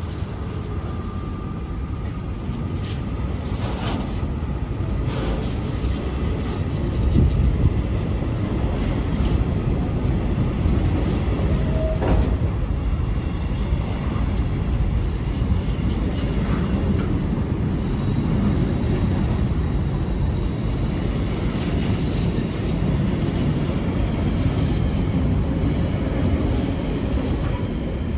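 A train passing at speed: a continuous rumble of wheels on rail with a few sharp clicks, peaking in loudness about seven seconds in.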